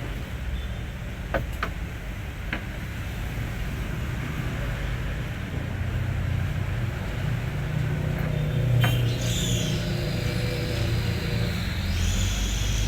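Hino 500 truck's diesel engine running with a steady low rumble that grows louder through the middle. There are a few sharp clicks early on, and a high whine comes in after about nine seconds.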